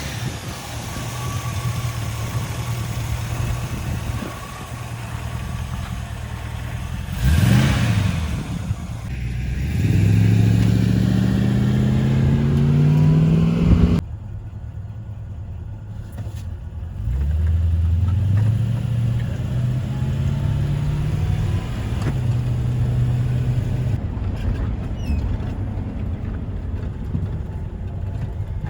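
Ford F100 pickup truck's engine running, with a brief loud rush about seven seconds in. The engine pitch climbs for several seconds and cuts off abruptly, then climbs again and holds steady.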